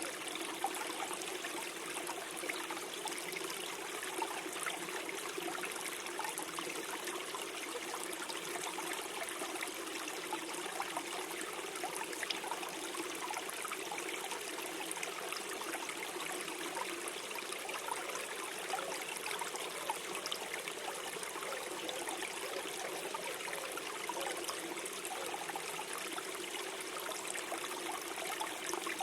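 Small forest stream flowing and gurgling steadily over stones, with constant fine trickling and splashing.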